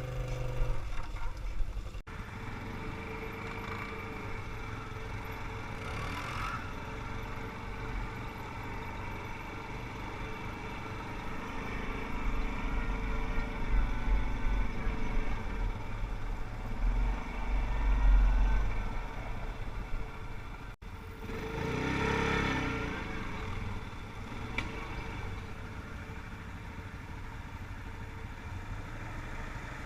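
ATV (quad bike) engines running while riding, the sound rising and falling continuously, with a louder surge about two-thirds of the way in.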